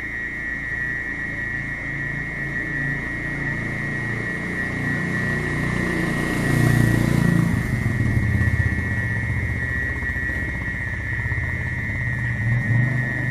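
Mole cricket (orong-orong) singing a continuous shrill trill at one steady pitch. A low rumble swells and fades through the middle.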